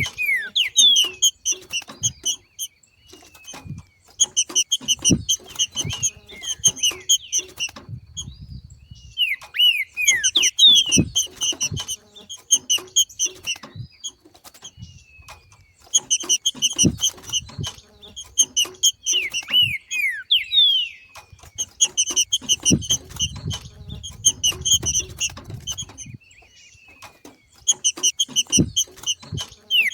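Green-winged saltator (trinca-ferro) giving its 'macheado' breeding-season chatter: repeated bouts of fast, high chirps, each a few seconds long with short pauses between, mixed with short downward-sliding whistles. Soft low thumps come in between.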